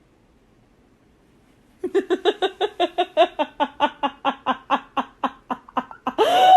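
A person laughing: a long run of rapid, evenly spaced laughs, about six a second, starting about two seconds in, then a louder squealing intake near the end.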